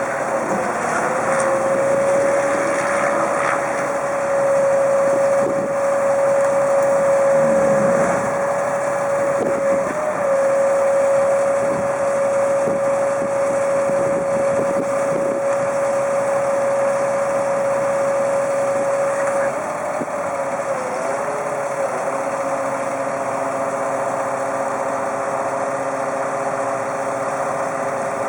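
2002 Freightliner FL70 bucket truck's engine running steadily with a high, even whine. About 20 seconds in, the whine wavers, settles slightly lower in pitch and the sound gets a little quieter.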